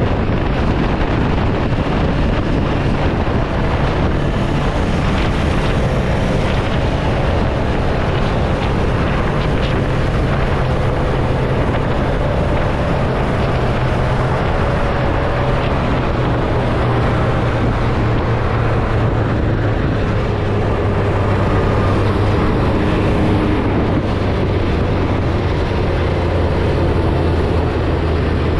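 Ducati Hypermotard motorcycle engine running steadily while riding, its note dropping lower in the second half, with wind buffeting the microphone.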